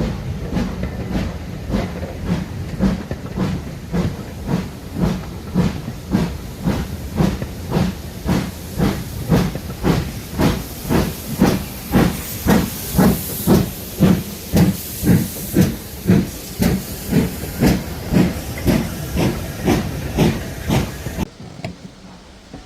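Steam locomotive working hard, with exhaust beats about two a second and steam hissing; the beats grow louder towards the middle and then ease a little. The sound cuts off sharply near the end.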